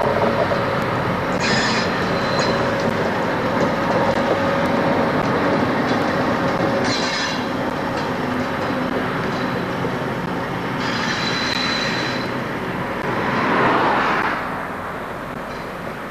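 FS D.345 diesel locomotive running along the track with its engine humming steadily. Short high squeals from the wheels on the rails come three times. A louder swell comes about thirteen seconds in, after which the sound fades.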